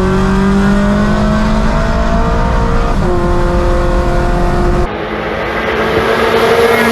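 Turbocharged Scion FR-S's 2.0-litre flat-four at full throttle, heard from inside the cabin. The engine note climbs through the gears, breaks sharply at an upshift about three seconds in, changes again near five seconds and climbs once more. The pulls run up to the red line.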